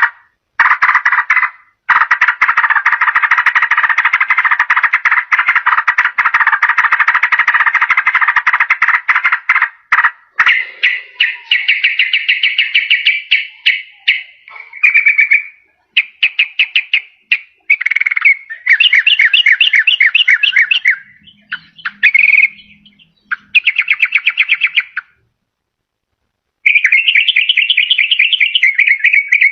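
Yellow-vented bulbul (trucukan) singing. A long, dense, rapid chattering run lasts about eight seconds, then comes a string of shorter fast trilled phrases broken by short pauses.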